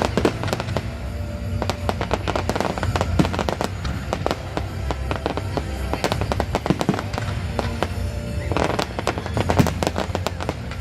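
Fireworks display going off in rapid, dense volleys of bangs and crackles, with music playing underneath.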